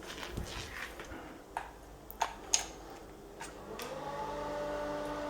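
A few sharp clicks from handling the plug at the socket, then about four seconds in an electric exhaust fan switches on and its motor spins up into a steady hum.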